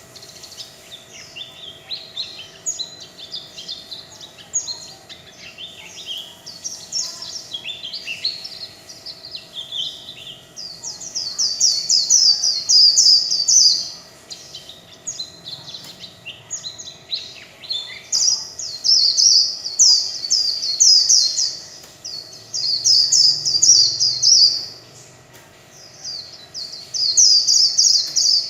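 White-eye (vành khuyên) singing its long 'líu' warble: soft rambling phrases at first, then bursts of fast, high trilled notes lasting several seconds each, with short pauses between them. A faint steady hum sits underneath.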